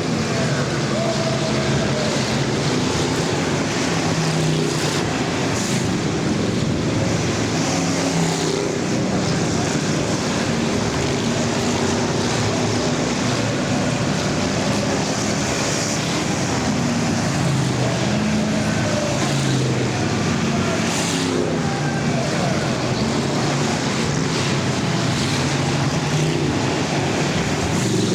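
Several full-size car engines running and revving together in an enduro race, their pitches rising and falling as the cars lap the track, over a steady noise of tyres and exhaust.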